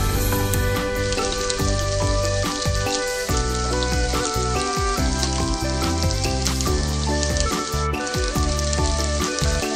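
Chopped onion frying in hot oil in a pan: a steady sizzle that sets in about a second in, over background music.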